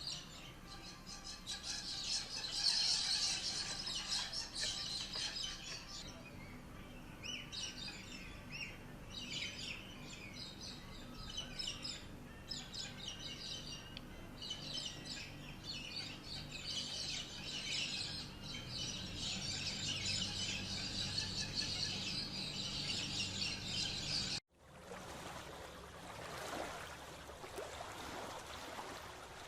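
Many birds chirping and calling at once, a dense, overlapping chorus. About 24 seconds in it cuts off abruptly, giving way to a quieter, even rushing background.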